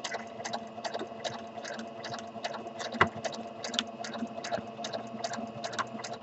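Sewing machine running slowly during free-motion stitching: a steady motor hum with the needle clicking at about six stitches a second, stopping abruptly near the end.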